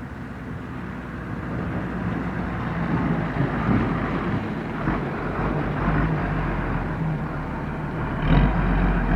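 A dump truck's diesel engine running steadily, with a louder low rumble swelling near the end.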